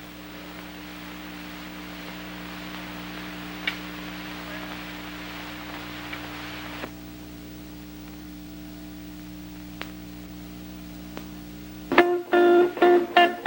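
A steady low hum with hiss, then about twelve seconds in a guitar starts strumming rhythmic chords, a few strokes a second.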